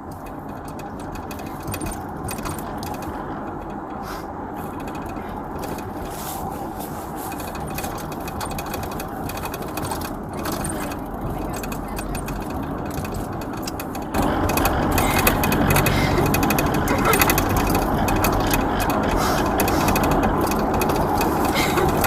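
Road and engine noise inside a moving patrol car: a steady rumble that grows gradually and then turns abruptly louder about two-thirds of the way in.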